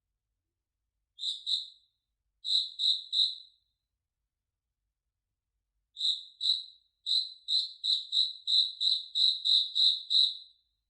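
A cricket chirping: clear, high-pitched chirps in small groups of two and three separated by silent gaps, then a steady run of about ten chirps, roughly three a second, in the second half.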